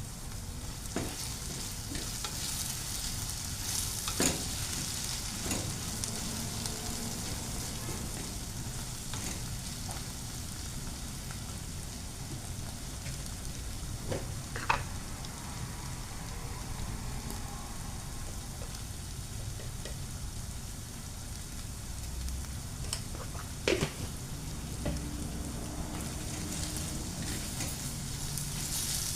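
Food sizzling in a frying pan as it is stirred, with a steady hiss and a few sharp clinks of a utensil against the pan.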